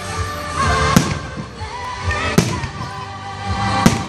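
Aerial firework shells bursting overhead: three sharp bangs about a second and a half apart, with music playing underneath.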